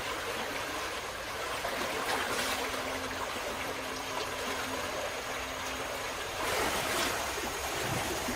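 Running water, a steady rushing and splashing that swells about two seconds in and again near the end, over a faint steady hum; it cuts off abruptly.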